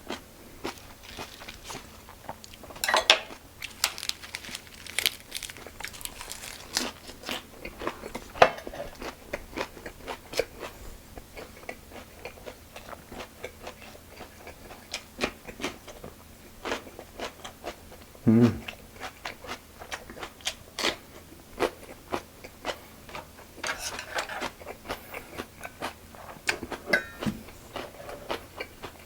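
Close-up chewing and crunching of lettuce wraps (ssam) filled with spicy pork and rice: irregular crisp bites and wet mouth clicks throughout.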